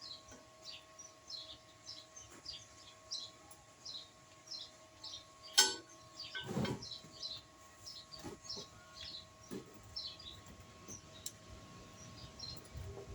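A small bird chirping over and over, about three short high chirps a second. There is one sharp crack about five and a half seconds in, followed by a brief rustling burst.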